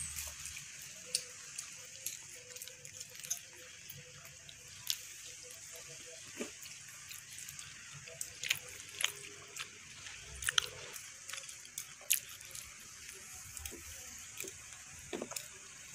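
A child chewing donut close to the microphone: scattered soft, wet mouth clicks and lip smacks, a dozen or so spread irregularly, over a faint steady hiss.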